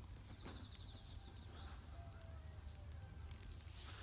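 Quiet outdoor background: a steady low rumble, with a faint rapid high trill in the first second or so and a few small clicks.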